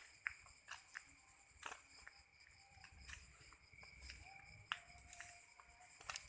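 Faint, irregular footsteps of someone walking, over a steady high-pitched chorus of night insects.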